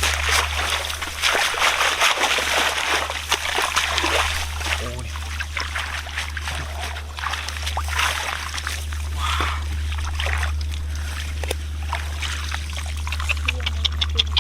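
Shallow water splashing and trickling in uneven bursts, with a steady low hum underneath.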